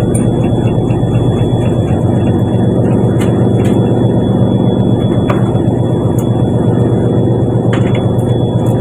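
Fishing boat's inboard engine running steadily with a loud, even low drone, with a thin steady high whine over it and a few sharp clicks.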